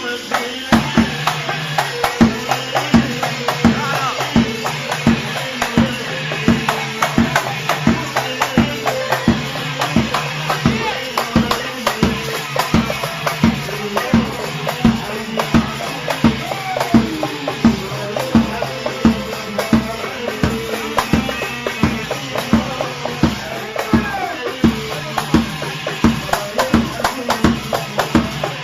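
Iraqi popular party band music: a fast, steady beat of drums and tambourine under a wavering melody line.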